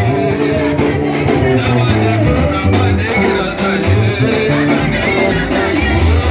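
Live worship band music with guitar and singing, a steady dance beat.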